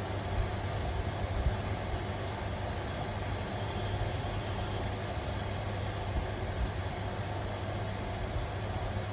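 A steady low machine hum over a constant noisy background, with a few faint knocks.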